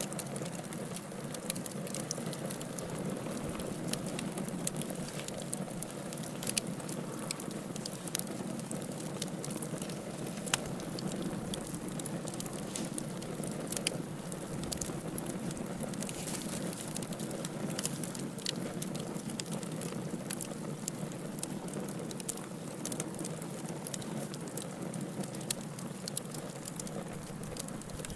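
Wood fire burning in a fireplace: a steady low rush of flames with irregular sharp crackles and pops throughout.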